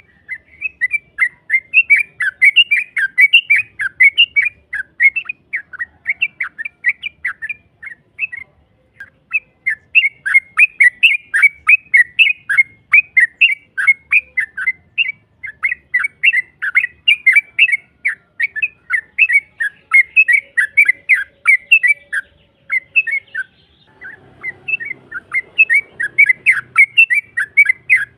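Yellow-vented bulbul calling in long, fast runs of chattering notes, a lure call meant to draw a rival to answer. The runs break briefly twice.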